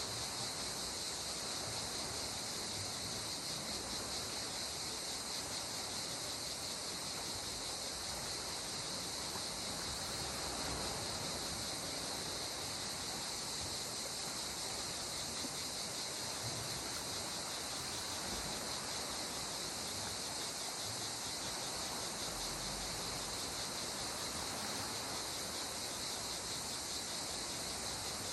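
Steady high-pitched chorus of insects, unbroken throughout, over a soft even wash of calm sea water.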